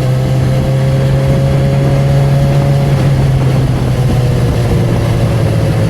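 Honda CB1000R's inline-four engine and exhaust running at a steady, even note while riding, with the rush of wind and road noise; the note eases slightly about three seconds in.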